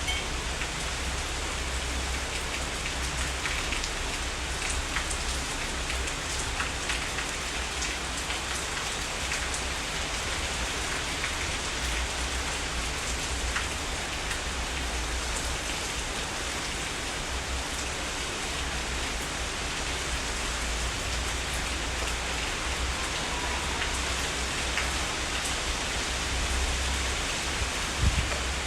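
Heavy rain falling steadily, with scattered individual drops ticking above the hiss and a low rumble underneath that swells and fades. One sharp tap sounds near the end.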